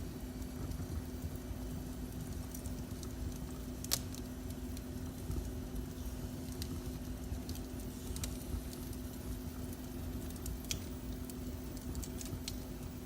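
Wood fire burning in a fireplace: a low rumble of flames with scattered crackles and pops, one sharper pop about four seconds in.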